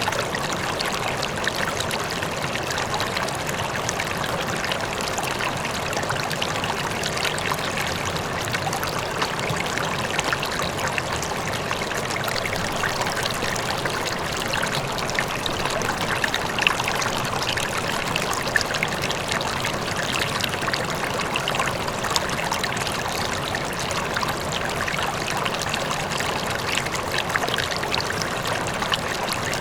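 River water flowing steadily over rocks, a constant rushing with small splashes and trickles, with a faint waterfall in the distance.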